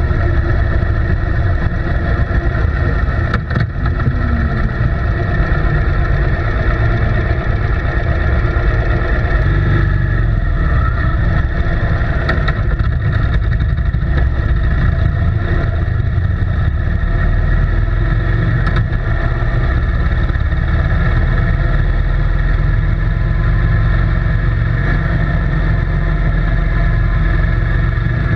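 An engine running steadily, a constant low drone with a few faint clicks.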